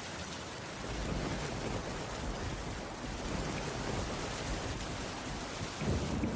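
Steady rain with a low, rolling rumble of thunder underneath, swelling near the end.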